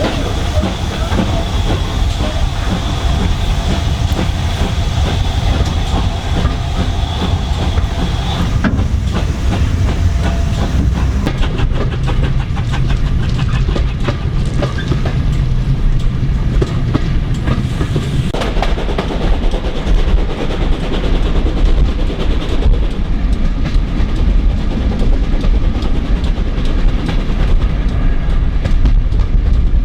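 Steam-hauled train running along the line, its wheels clicking over the rail joints. A steady high-pitched whine sounds over the rumble for the first eight seconds or so, then stops.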